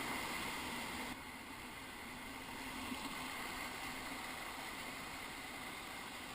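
Steady rushing of river water around the raft, a continuous hiss that drops suddenly in level about a second in.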